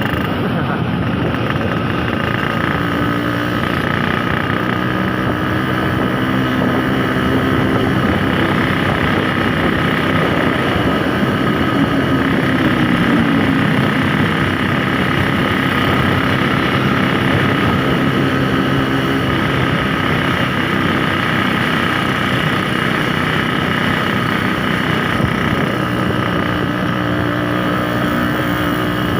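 Yamaha RX-King 135 cc single-cylinder two-stroke motorcycle engine running on the move, its pitch shifting with the throttle and dropping about midway, over steady road noise.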